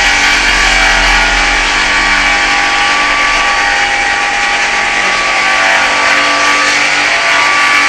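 Homemade circular-blade sawmill driven by an 11 kW motor, running steadily. Its sound is a loud, even noise with a high whine of several steady tones on top.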